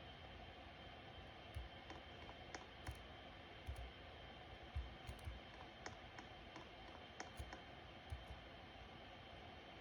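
Ceiling fan running: a faint steady whir with light, irregular clicks scattered through it.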